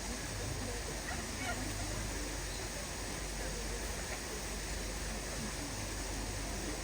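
Steady background noise with faint, distant voices murmuring.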